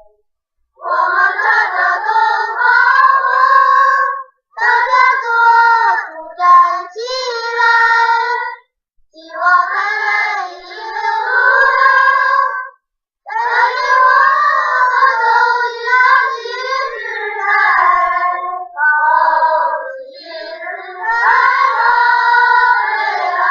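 Group of schoolchildren singing together, a song of devotion in praise of a local hero. It comes in sung phrases a few seconds long with short breaths between them.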